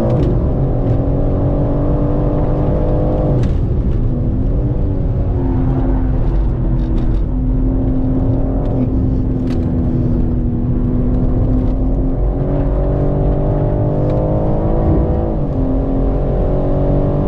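BMW M3 Competition's twin-turbo straight-six engine heard from inside the cabin at track pace: it slows hard into a corner and then pulls back up to speed. The engine note shifts in pitch and breaks at the gear changes, with a few short sharp cracks along the way.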